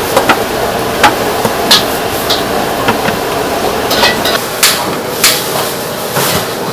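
Irregular sharp knocks and taps, about ten of them, over a steady background din.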